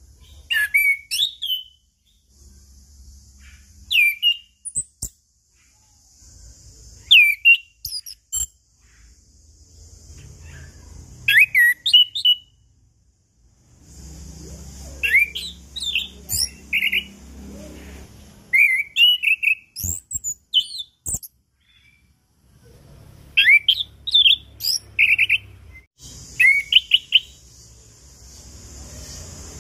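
Chestnut-capped thrush (anis kembang) singing. Its song comes in short clusters of quick whistled notes that sweep up and down, one cluster every few seconds with brief pauses between.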